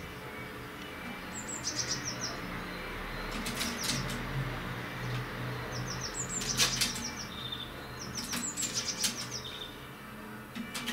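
Birds at a balcony feeder chirping in short runs of high, quickly repeated notes every two or three seconds, with a few brief sharp rustles between them.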